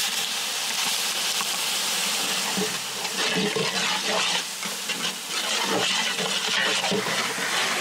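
Ginger-garlic paste sizzling in hot oil with sliced onions in a large metal cooking pot, stirred with a ladle that scrapes through the mixture from about three seconds in.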